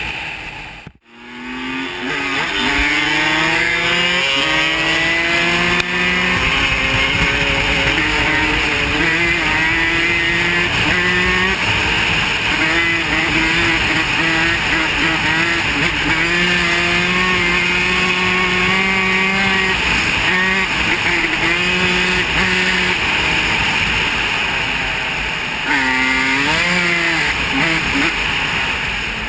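Off-road vehicle engine revving under riding, its pitch rising and falling as the throttle opens and closes and gears change, with a short break about a second in.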